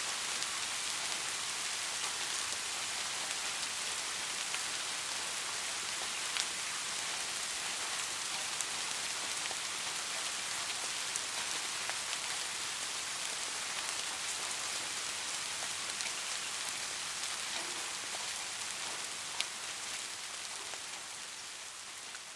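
Steady rain falling, an even hiss with scattered sharp ticks of single drops striking a surface, fading gradually over the last few seconds.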